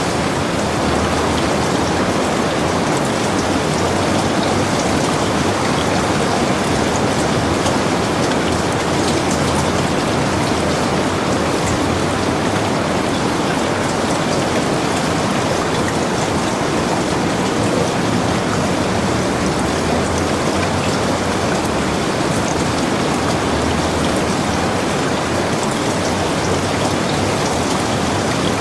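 Heavy rain falling steadily on and around a log cabin, an even rushing hiss with scattered drop ticks.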